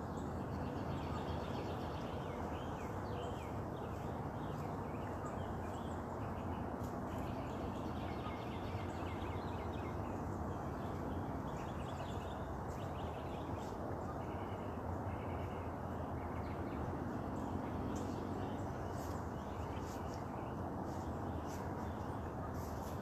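Several birds chirping and singing with many short, quick calls, over a steady background of low, even noise.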